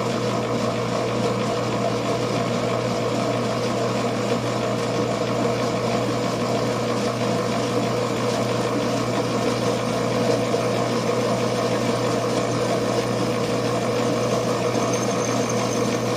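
Electric machine-shop motor running steadily with a constant hum, no load changes; a faint high whine joins in near the end.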